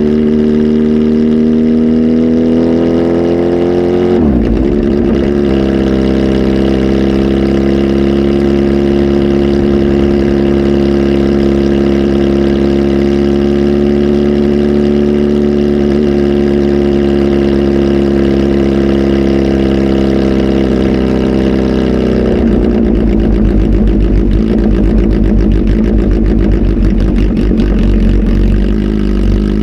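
Kawasaki ZH2 SE's supercharged inline-four, flash tuned and on a full exhaust, running loud. The revs climb for the first few seconds, dip sharply, then hold steady and high for a long stretch before falling back about 22 seconds in to a lower, rougher running that rises slightly near the end.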